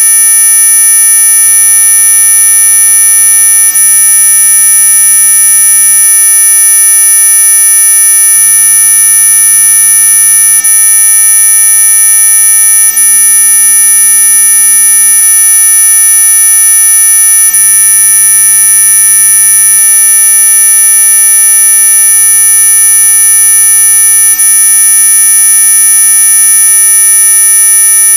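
Anti-mosquito repellent tone track: a loud, steady electronic whine of many constant pitches layered together, the strongest of them very high-pitched. It is meant as a high-frequency sound to drive off mosquitoes.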